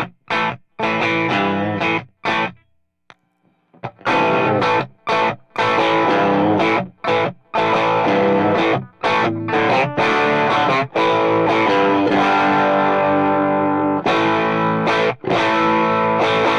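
Electric guitar, a Strat played through an Xotic RC Booster with the gain cranked and the bass and treble pulled down, playing a mid-gain overdriven rhythm part. It opens with short, choppy chord stabs, pauses briefly about three seconds in, then moves to longer ringing chords.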